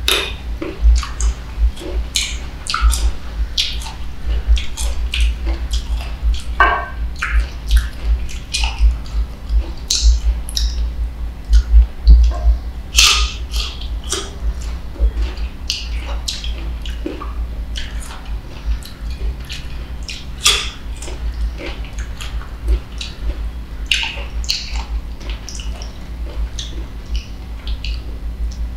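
Close-miked biting and chewing of mango slices: sharp, wet crunches and mouth smacks coming irregularly, several a second at times.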